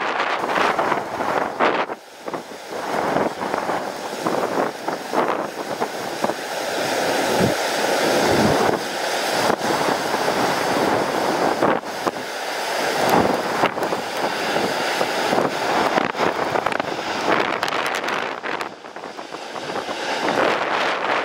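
Strong, gusty wind buffeting the microphone, with a landing jet airliner's engines running under it; a faint steady whine comes through in the middle.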